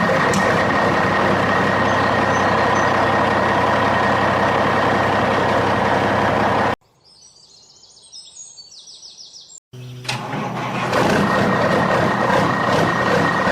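A vehicle's motor running steadily. It cuts off suddenly about halfway through, leaving a few seconds of quiet with bird chirps, then starts again and builds back up.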